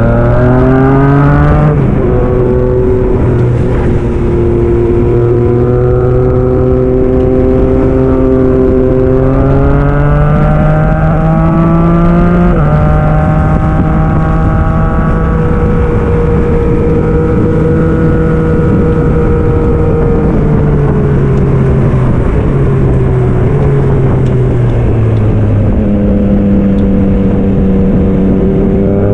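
2022 Yamaha MT-09 SP's 890 cc three-cylinder engine through an aftermarket Black Widow exhaust, under way on the road. The revs climb at the start and drop suddenly at a gear change, hold fairly steady, drop again at a second shift about twelve seconds in, fall away as it slows around twenty seconds in, then climb again near the end.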